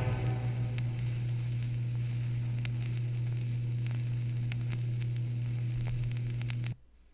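The tail of orchestral music fades out into a steady low hum from the record playback, with scattered faint surface clicks of the vinyl record. About a second before the end the hum and clicks cut off suddenly into silence.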